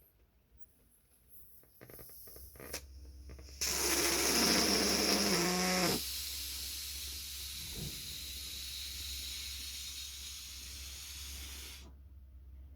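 Air rushing through a balloon's neck: a loud hiss with a wavering squeal for about two seconds, then a steadier, quieter hiss that stops abruptly. Rustling and handling come before it.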